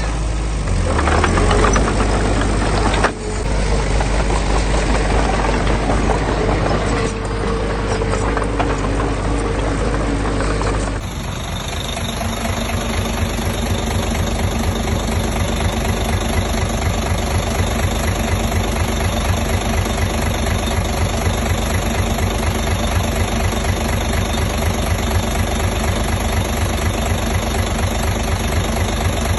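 Diesel engine of heavy construction machinery running. About eleven seconds in the sound changes abruptly to a steady, evenly pulsing diesel run.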